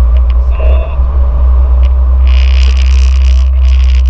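Toyota AE86 in motion: a loud, steady low rumble, with a short squeak about half a second in and a steady hiss of road noise that sets in about two seconds in.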